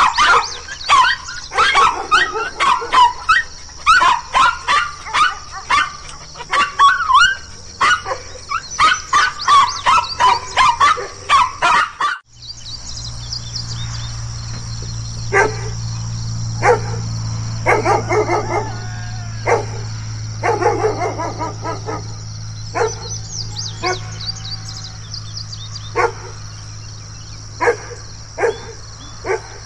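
Guard dogs barking aggressively: rapid, overlapping barks at first, then, after a sudden cut about twelve seconds in, separate barks about a second apart over a steady low hum.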